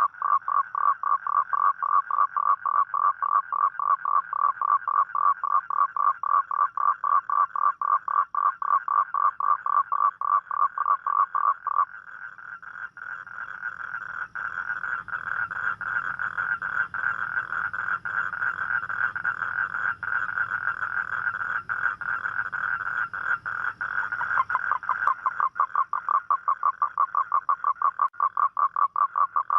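Toad calling with a fast run of pulsed notes, several a second. About twelve seconds in they merge into one continuous trill, which breaks back into separate pulses near the end.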